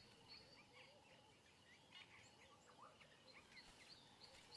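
Near silence with faint small birds chirping, many short scattered calls.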